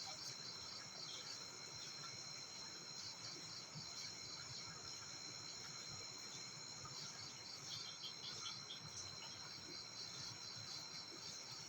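Faint steady chorus of insects chirring high and continuous, with short pulsing trills at times.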